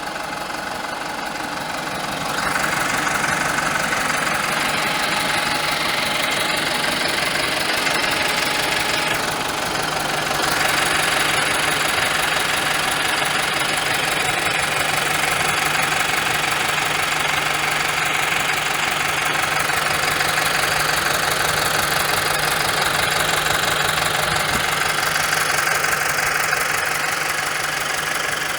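Steyr 4075 Kompakt tractor's four-cylinder FPT diesel engine running steadily, growing louder about two seconds in and again about ten seconds in, then holding.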